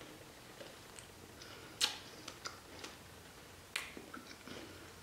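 Chewing a freeze-dried fig chip in the mouth: faint crisp crackles, with two sharper clicks about two seconds in and near four seconds.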